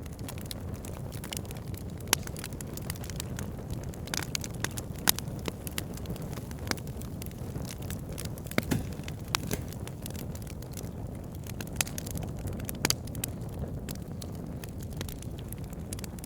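Wood fire burning logs: a steady low rumble of flame with frequent sharp crackles and pops at irregular intervals.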